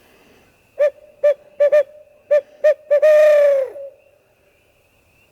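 Barred owl hoot call: about seven short hoots and then one long hoot that falls away at the end. It is the owl call used to shock roosted turkeys into gobbling.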